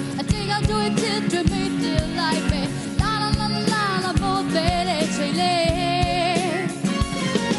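Female vocalist singing a Burmese pop ballad over a live band, with long held notes with vibrato, sustained chords and a steady drum beat.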